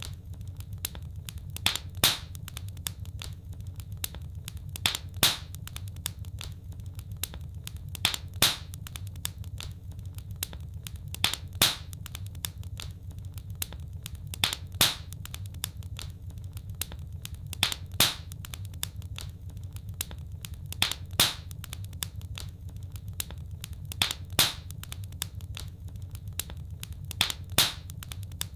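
Wood fire crackling in a fireplace: a steady low rumble with many small crackles and a louder pop about every three seconds.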